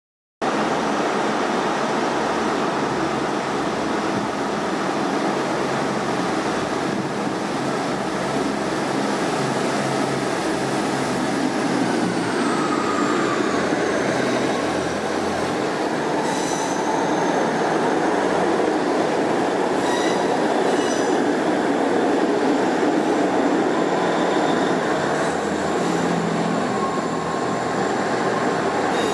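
Train running through a railway station: a steady rumble and rail noise, with a high whine that falls in pitch about twelve seconds in, and brief high squealing tones about 16 and 20 seconds in.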